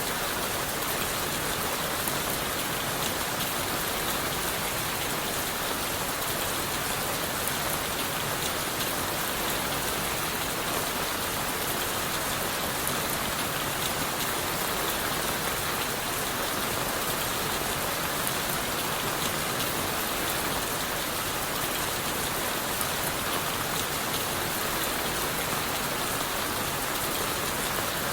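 Steady rain falling on leaves, wood and the forest floor: an even, unbroken hiss with many fine drop patters.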